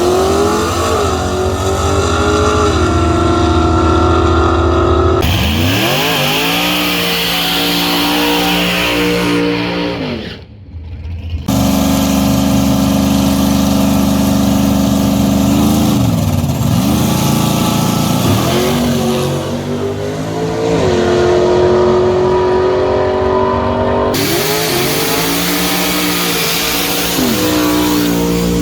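Race pickup truck engines revving hard under acceleration, the pitch climbing, holding and then falling away several times. The sound breaks off abruptly a few times, with a short dip about ten seconds in.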